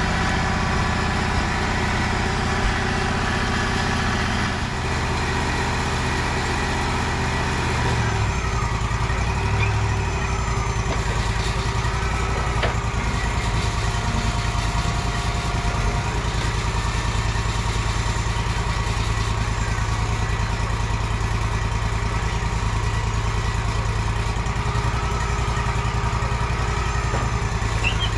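Wood-Mizer sawmill's engine running steadily, its low note shifting about eight seconds in, then holding steady.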